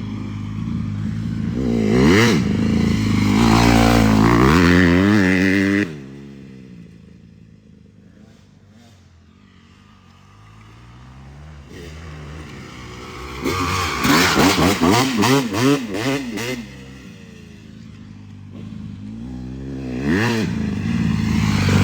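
Dirt bike engine revving hard, its pitch climbing and falling as it runs through the gears. It drops away suddenly about six seconds in, then comes back with a string of quick rev bursts in the middle and builds again near the end.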